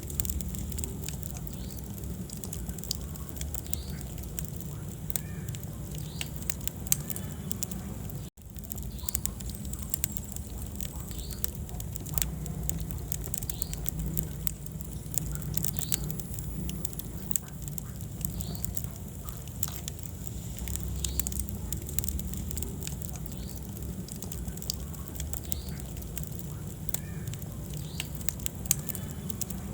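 Wood fire burning in a fireplace: a steady low rumble of the flames with frequent small crackles and pops. The sound cuts out for an instant about eight seconds in.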